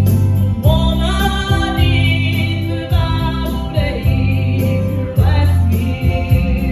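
A gospel song: singing enters about half a second in over a band accompaniment with a steady bass line and guitar.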